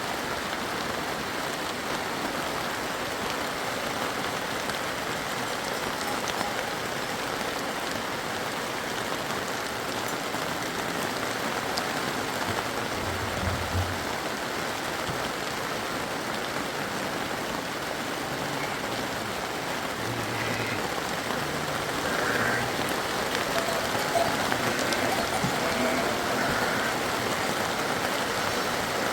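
Steady rain falling, a constant hiss of drops that grows a little louder about two-thirds of the way through.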